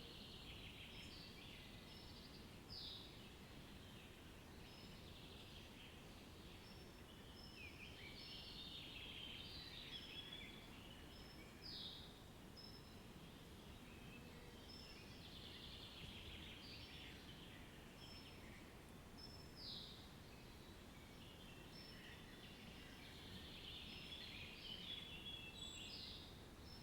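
Several birds chirping and singing faintly and continuously, with a few sharp downward-sweeping calls, over a faint low background hiss.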